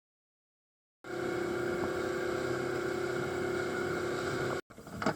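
A boat engine running steadily, starting about a second in and cutting off abruptly near the end.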